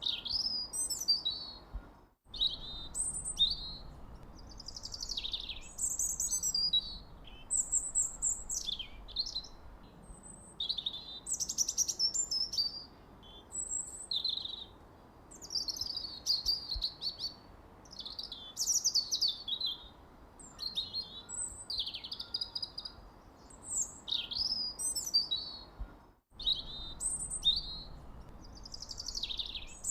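Songbirds chirping: quick, high chirps and short warbled phrases following one another closely over a faint background hiss. The sound cuts out for an instant twice, about two seconds in and again about four seconds before the end.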